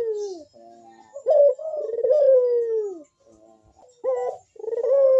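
Barbary dove (burung puter) cooing: the end of one long coo, then two full phrases about a second in and about four seconds in. Each phrase is a short sharp note followed by a long coo that falls in pitch at its end. This is the male's courtship coo used as a lure call.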